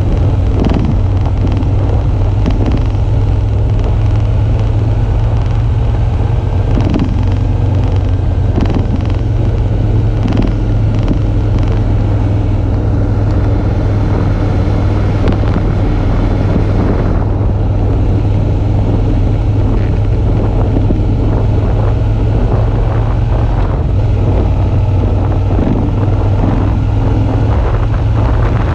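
Suzuki V-Strom 650's V-twin engine running steadily while riding, with wind buffeting the microphone.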